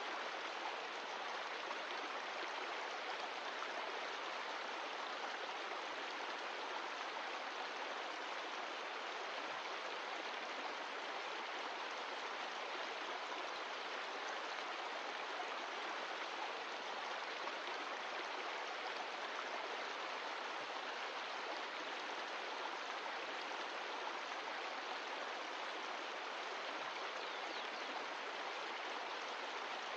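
Mountain stream of glacial meltwater flowing, a steady, even rush of water with no change in level.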